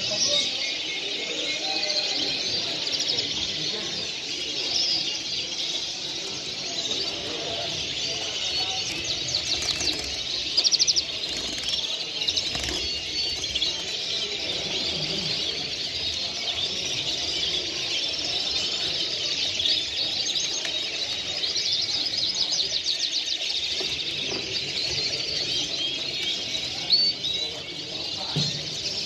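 Many caged songbirds chirping and singing at once, a dense, continuous chorus of overlapping trills and tweets, over a low murmur of voices.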